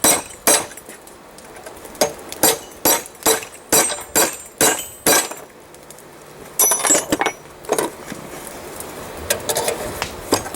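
Hammer blows on a chisel against hot railroad-spike steel, sharp metallic strikes with a bright ring. Two strikes, then a run of about eight at roughly two a second, a quicker cluster about seven seconds in, and lighter taps near the end.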